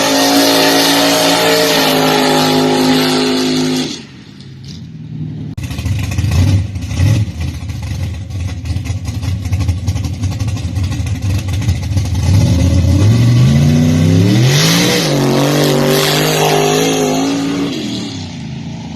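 Mud truck engine revving hard and held high, cutting off abruptly about four seconds in. It then runs rough, climbs in revs again past the middle, holds high, and falls away near the end.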